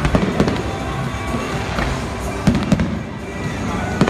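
Aerial fireworks shells bursting in a series of sharp bangs, two of them in quick succession about two and a half seconds in, with music playing underneath.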